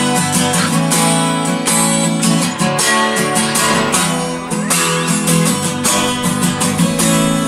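Acoustic guitar strummed in a steady rhythm, ringing full open chords.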